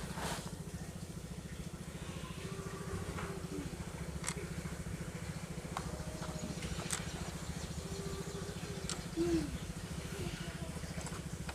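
A steady low mechanical hum with fine even pulsing, over which a few light, sharp clicks sound as screws are set into a plastic toy car body.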